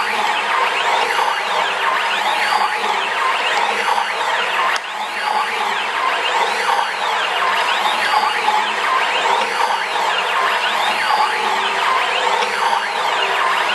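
CNC machine's axis motors whining, the pitch rising and falling again and again, about every one and a half seconds, as the axes accelerate to speed and slow down during rapid back-and-forth moves.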